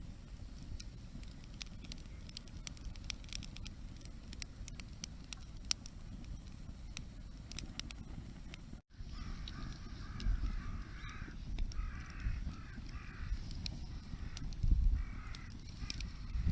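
Wood campfire crackling with frequent sharp pops over a low outdoor rumble. After a brief break about nine seconds in, a bird calls repeatedly in short series while the fire keeps crackling faintly.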